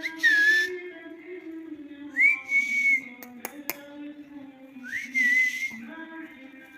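Indian ringneck parrot giving three whistles, each rising and then held on a high note, a couple of seconds apart. A few sharp clicks come between the second and third whistle.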